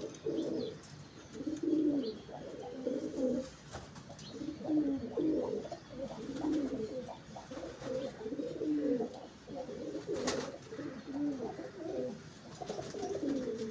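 Pair of Taddi domestic pigeons cooing over and over, low repeated coos following close on one another. A single sharp click comes about ten seconds in.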